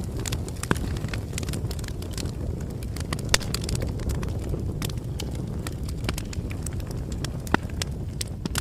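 Campfire burning: a steady low rumble of flames with frequent sharp crackles and pops from the wood, three of them louder than the rest.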